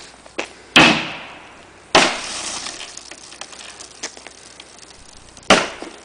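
Hammer blows on the double-pane glass of a sliding glass door: three hard strikes a few seconds apart. The second blow, about two seconds in, is followed by about a second of shattering and tinkling glass.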